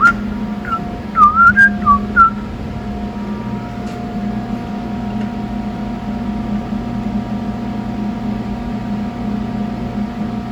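A person whistles a quick run of about six short notes with little pitch bends in the first two seconds. A steady mechanical hum runs underneath throughout.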